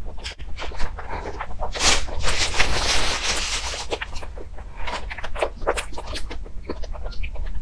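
Close-miked mouth sounds of chewing soft cake: wet smacking and clicking in quick, irregular succession. About two seconds in there is a burst of rustling that lasts roughly a second and a half.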